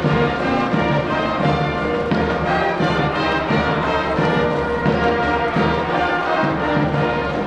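Brass band playing a cheering tune with a steady drum beat.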